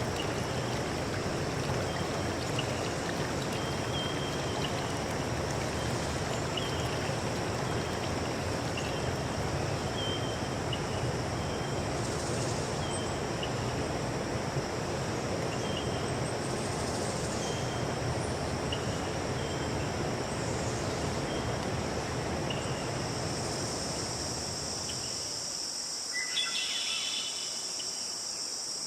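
Steady rush of running water with insects trilling high above it and a short chirp repeating about once a second. About 25 seconds in the water sound drops away, leaving only the insect trilling and a brief call.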